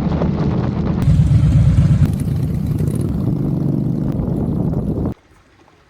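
Motorcycle engine running steadily. The sound changes abruptly about one and two seconds in and cuts off suddenly about five seconds in.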